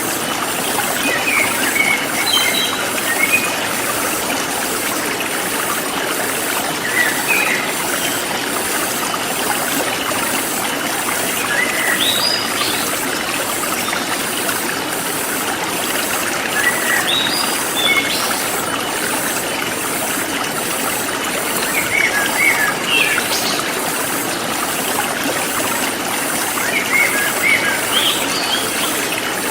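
A forest stream flowing and trickling steadily, with short bursts of bird chirping about every five seconds and a regular high-pitched pulsing of insects above it.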